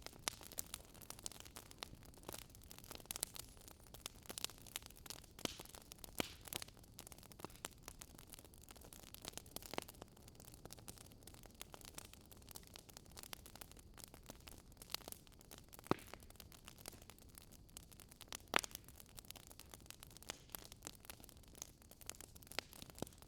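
Wood bonfire crackling: irregular sharp pops and snaps over a faint hiss of burning, with two louder pops about two-thirds of the way through.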